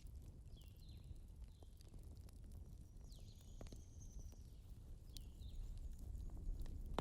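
Faint ambient background: a steady low rumble with scattered soft clicks, and a few short high chirps in the first two seconds and again about five seconds in.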